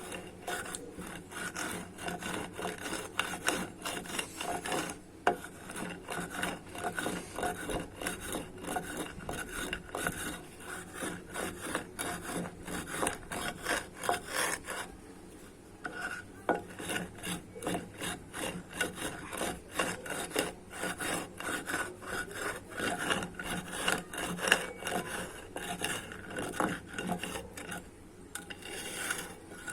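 Crunchy white mud being crushed and ground on a hard floor: a dense run of crunching and scraping, with a short lull about halfway through.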